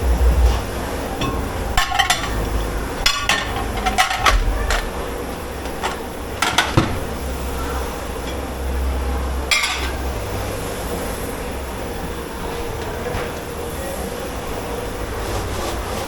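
Dishes, pots and utensils clinking and knocking as they are handled in a commercial dish pit, a handful of sharp clatters in the first ten seconds, over a steady low machine rumble.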